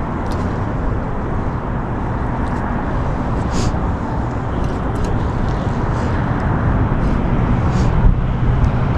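Steady low outdoor rumble with no clear pitch, and a few faint ticks over it.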